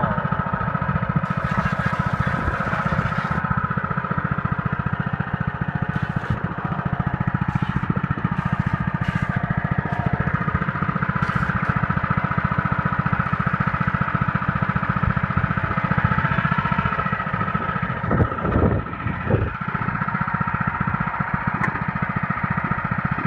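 Honda walk-behind lawn mower engine running steadily at a constant speed with an even firing beat, still running even though its air filter and spark plug are soaking wet.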